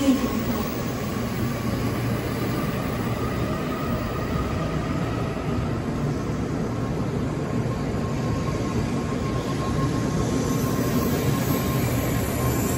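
Shinkansen bullet train running along a station platform: a steady rumble of wheels and running gear with a faint steady whine.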